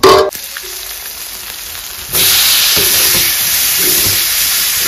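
Food sizzling and steaming in a hot steel wok while a ladle stirs it with a few soft knocks. The sizzle jumps suddenly louder about two seconds in. It opens with a brief clatter.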